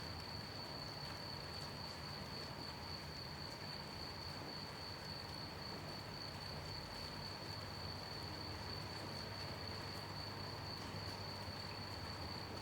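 Crickets chirping in one steady, unbroken high trill over the even hiss of gentle rain.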